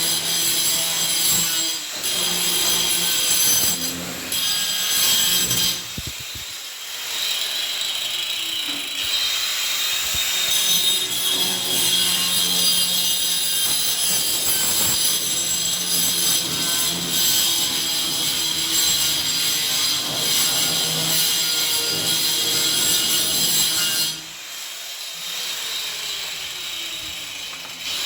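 Harsh, steady metalworking noise with high whining tones, dropping away briefly about six seconds in and for a few seconds near the end.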